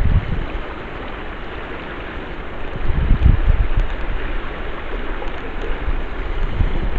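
Steady rush of flowing river water, with low gusts of wind buffeting the microphone, strongest about three seconds in.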